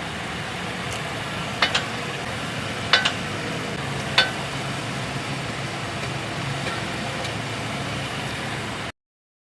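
Toyota Corolla running with a steady hum while three sharp clunks sound in the first half, the first two doubled: the clunking noise that comes when braking in reverse.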